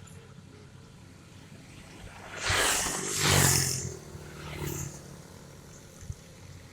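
Hyundai excavator's engine running steadily, with a loud rushing noise lasting about a second and a half near the middle as the engine note strengthens under load.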